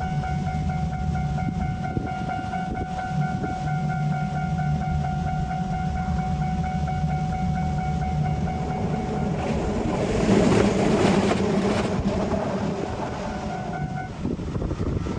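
A train passing a level crossing: a steady low rumble under the crossing alarm's ringing tone. A loud rushing noise swells about ten seconds in and fades about three seconds later, and the alarm tone stops about fourteen seconds in.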